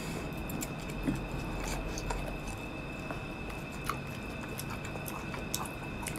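Close-miked chewing and wet mouth sounds of a person eating seedless green Muscat grapes, with a few small sharp clicks and squishes as the grapes are bitten.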